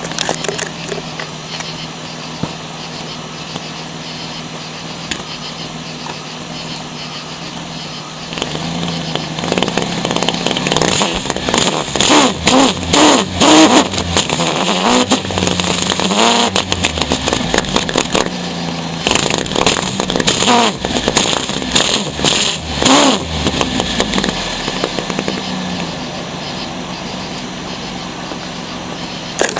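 1999 Ford Windstar's V6 engine idling, then revved up and down repeatedly from about eight seconds in until near the end, when it settles back to idle. The exhaust blows through a bike inner tube zip-tied over the tailpipe as a makeshift muffler.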